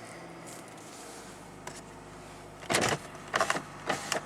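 2008 Toyota Avensis 2.0 VVT-i D-4 petrol engine idling steadily just after starting, heard from inside the cabin. About two-thirds of the way in come three short, louder noises, roughly half a second apart.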